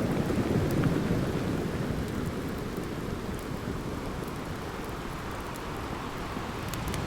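Ocean surf washing on a shore: a low rushing surge that swells about a second in, ebbs, and builds again near the end. A few faint crackles from a campfire sit over it.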